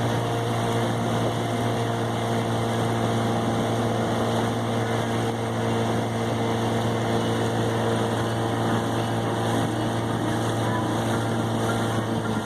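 Boat motor running at a steady speed: an unchanging engine hum over the rush of water and wind.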